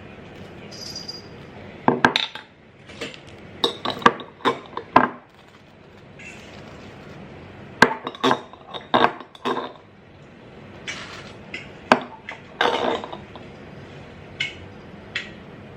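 Kitchenware clinking and knocking while coffee is made: irregular sharp taps of cups, a spoon and dishes, in small clusters.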